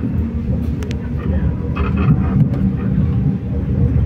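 Passenger train running on the track, heard from inside the carriage: a steady low rumble of wheels and running gear, with a few faint clicks.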